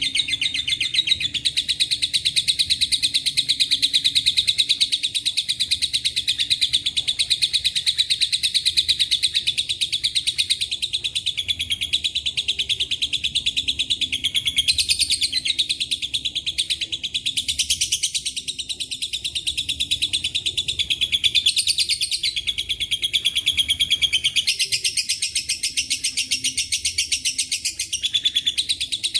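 A lovebird sings a long, unbroken, very fast high-pitched chattering trill (ngekek panjang). Its song is filled with phrases copied from cililin and canary, and it changes character a few times.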